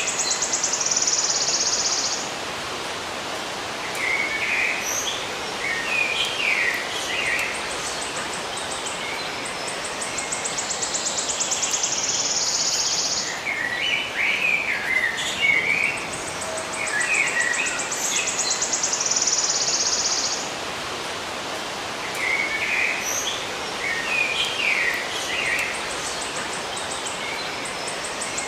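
Birds chirping in short clusters over a steady hiss. A very high trill speeds up into a buzz, then cuts off, and this comes back about every nine seconds.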